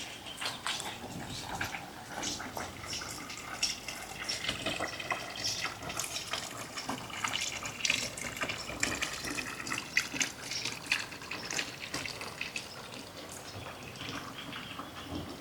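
Running water splashing and gurgling, with a dense stream of small irregular splashes.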